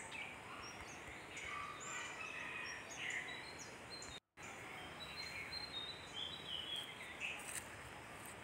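Birds chirping and calling in the background: many short chirps and whistles over a steady hiss. The sound drops out completely for a moment a little past four seconds in.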